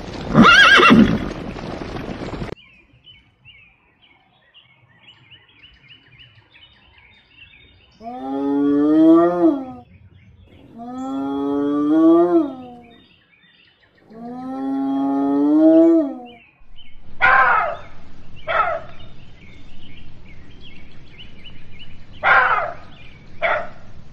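A horse neighs once at the start. Then a spotted hyena gives three long whoops, each rising in pitch. Near the end a black-backed jackal gives several short, sharp calls.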